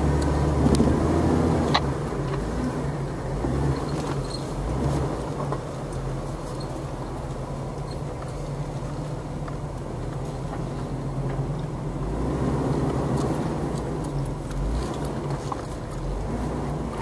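Jeep engine running at low speed as it crawls over a rutted dirt trail, heard from inside the vehicle, with a short knock about two seconds in. The engine gets louder briefly about a second in and again around twelve seconds in.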